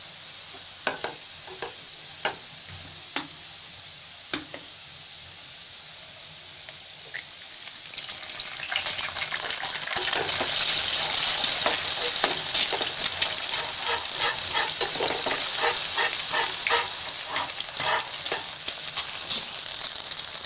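Shredded potato and onion frying in a little oil in a frying pan, with a few sharp knocks in the first few seconds. About eight seconds in, the sizzling grows much louder and denser as an egg goes into the hot oil, with the spatula scraping and stirring while the egg is scrambled.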